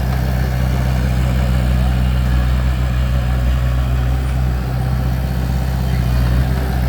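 Bulldozer's diesel engine running steadily with a low, even drone at constant speed.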